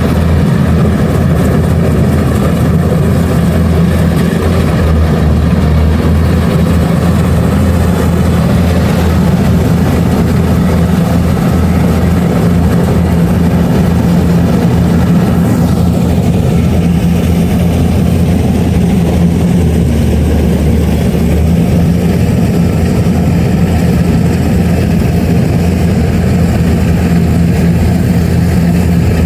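Kubota DC-70 Plus combine harvester running steadily, its engine giving a constant low drone. About halfway through, a higher machinery sound sweeps down and drops away, while the low drone carries on.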